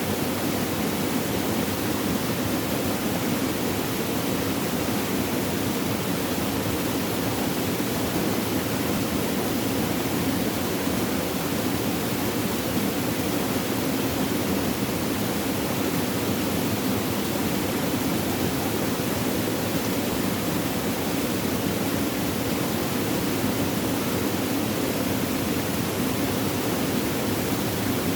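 Flowing water, a steady gurgling rush with no breaks or changes.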